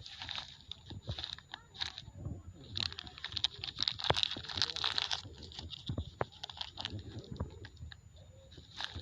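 Plastic litter crinkling and crackling as it is stuffed into a bag, in irregular handfuls, loudest about four to five seconds in.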